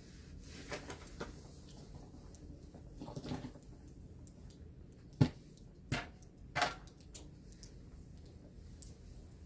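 A few sharp knocks and clicks, the loudest about five seconds in, followed by two more within the next second and a half, with soft rustling earlier on.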